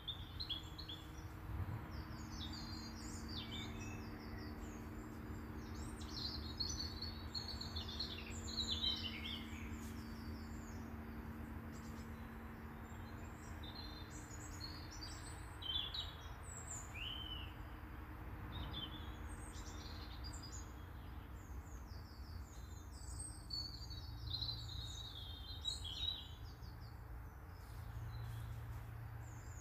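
Small garden songbirds chirping and singing, many short high calls and trills overlapping and coming and going, over a low steady background rumble.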